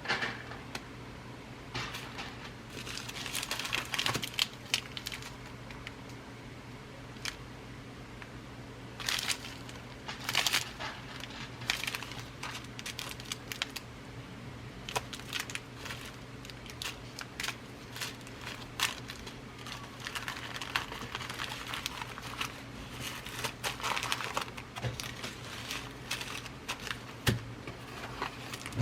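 Glass seed beads being rummaged through in their packaging: irregular rustling and crinkling, with many scattered sharp clicks.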